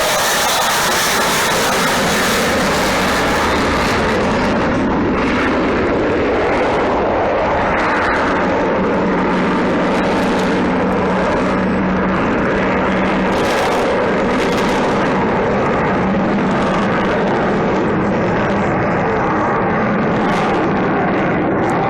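Avro Vulcan XH558's four Rolls-Royce Olympus turbojets on a low jet flypast: a loud, steady jet roar. The highest hiss fades after the first few seconds.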